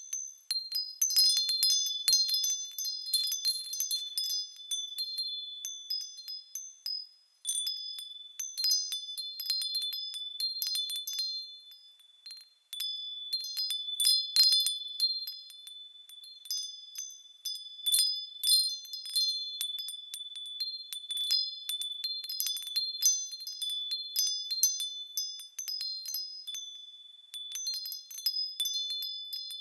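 Small metal bells swaying and ringing high-pitched, with irregular strikes overlapping into a continuous shimmer. The ringing dies away twice, about seven and twelve seconds in, before the strikes pick up again.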